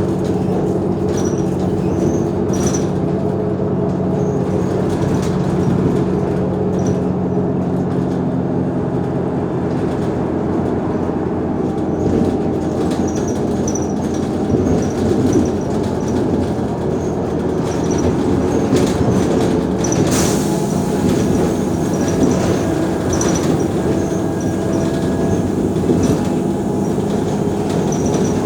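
Mercedes-Benz O345 Conecto G articulated city bus under way: a steady engine and drivetrain drone whose pitch shifts several times as the bus changes speed, with clicks and faint high squeaks.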